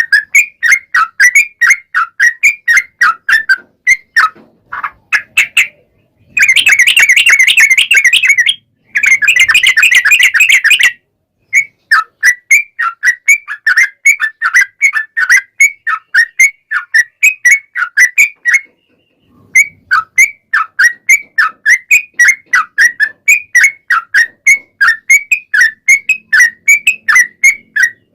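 Yellow-vented bulbul (trucukan) singing: a long run of loud, sharp chirps, about four a second. About six seconds in it breaks into two long, fast chattering trills, the rapid 'ropel' phrase. Then the chirping series resumes, with brief pauses.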